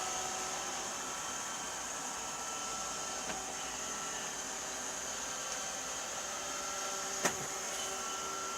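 Robot vacuum cleaner running: a steady motor whine of several held tones over a hiss, with a single sharp knock about seven seconds in.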